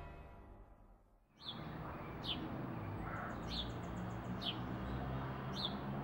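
Eerie music fading out, then birds chirping over a steady outdoor background hiss: short, sharp chirps about once a second, with a brief rapid high trill about halfway.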